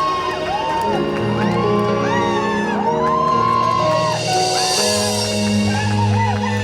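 Live rock band playing the instrumental intro of a ballad. A held, bending lead melody rides over steady low bass notes, with a hissing swell about four seconds in.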